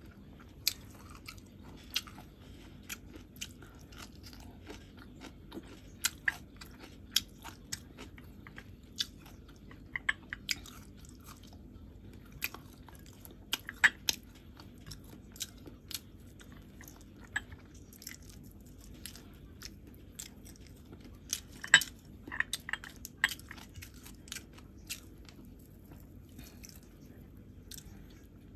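A person eating close to the microphone: irregular wet chewing, biting and mouth clicks, with a cluster of sharper clicks about three quarters of the way through.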